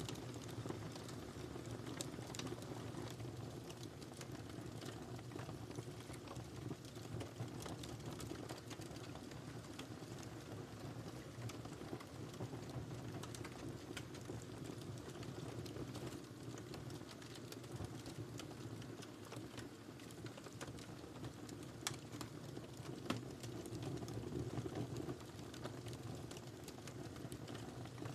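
Wood fire crackling in a fireplace: irregular sharp snaps and pops over a steady low rumble of the flames, with one louder pop near the end.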